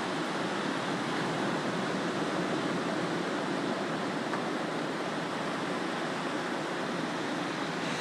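Ocean surf washing onto a beach: a steady, even rush of breaking waves, with no single crash standing out.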